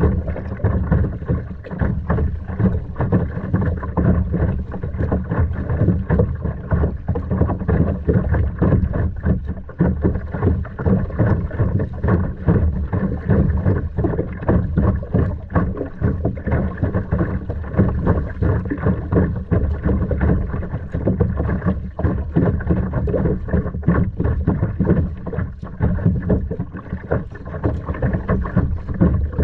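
Wind rumbling and buffeting on the microphone over water sounds around a kayak.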